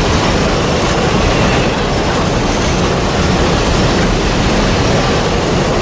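Freight train's open-top wagons rolling past at close range: a steady, loud noise of wheels on rail.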